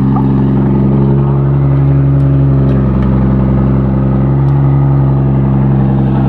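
Car engine idling steadily and loudly, with an even, unchanging note.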